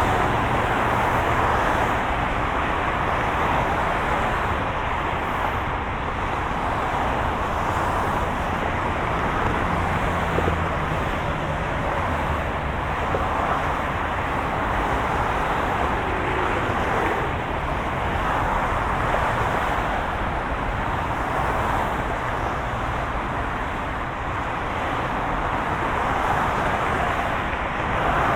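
Steady hum and road noise of a moving car, the rumble of tyres and engine rising and falling gently every few seconds.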